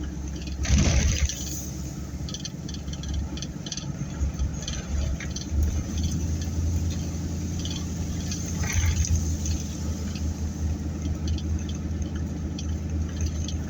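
Car cabin noise while driving: a steady low rumble of engine and tyres, with a brief louder rush about a second in and another near nine seconds, and scattered light ticks and rattles.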